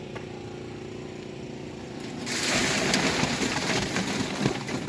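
A vehicle engine running steadily; a little over two seconds in, a loud rushing, hissing noise starts suddenly and continues over it.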